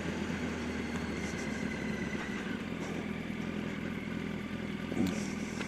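Yamaha R1 sport bike's inline-four engine idling steadily.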